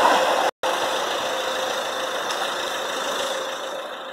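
Electric multiple-unit train running away down the line, its rumble and steady hum fading as it recedes. The sound drops out completely for an instant about half a second in.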